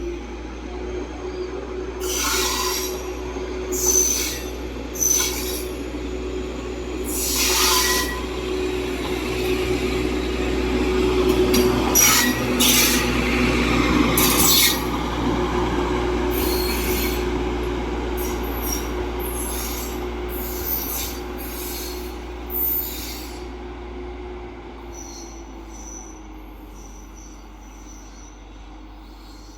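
Train passing with a steady engine drone and a dozen or so short, high wheel squeals, the loudest stretch about midway. The sound dies away over the last several seconds.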